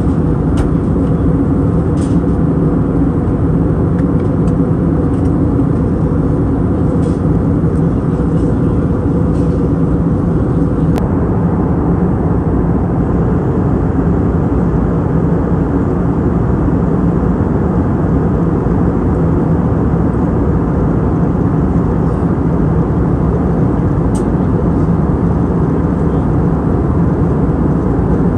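Steady cabin noise of an Airbus A320neo airliner in flight: a constant low rush of engine and airflow with a couple of steady hums in it, and a few faint ticks.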